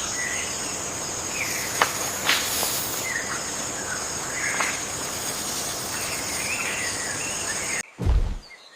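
Rainforest ambience: a steady, high insect drone with scattered short bird chirps and a couple of sharp clicks. Near the end it cuts off abruptly and a loud, low thud follows.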